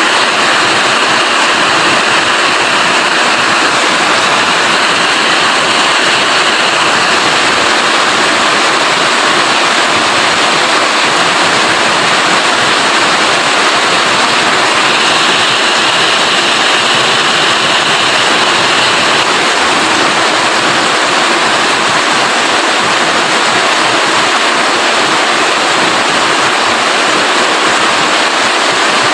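Rain falling steadily, an even wash of noise with no breaks.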